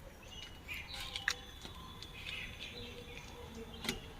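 Birds chirping in short scattered calls, with two sharp clicks, one about a second in and one near the end.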